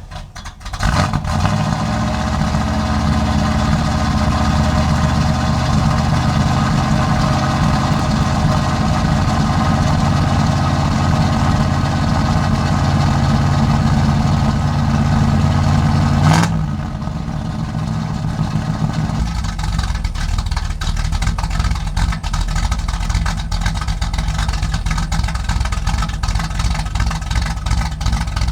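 Cammed small-block Chevy V8 in a 1986 Camaro, with a Comp Cams Mutha Thumpr cam, running through its new custom exhaust. It catches right at the start and runs steadily. About two-thirds of the way through, the sound changes suddenly to a lower, choppier, lumpy idle.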